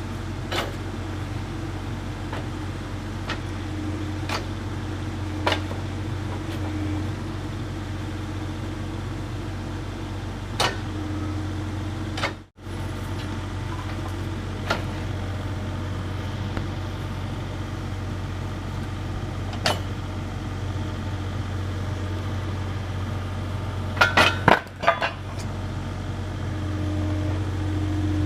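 Kubota KX040-4 mini excavator's diesel engine running at idle with a steady low hum, with sharp knocks every few seconds and a quick run of several knocks near the end. The sound cuts out for an instant about twelve seconds in.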